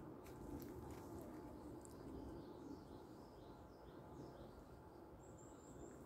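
Faint wild birdsong: a string of about six chirped notes, then a high, thin trill about five seconds in, over a low steady rumble.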